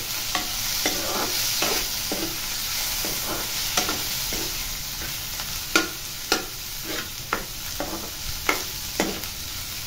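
Chopped tomato, onion and garlic frying in mustard oil in a kadai: a steady sizzle, with a metal spoon scraping and tapping against the pan as the mixture is stirred. The taps come a couple of times a second and are sharpest in the second half.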